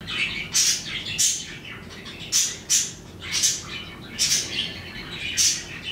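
Small birds chirping: short, sharp, high-pitched chirps come every half second to a second, in small groups with brief pauses between them.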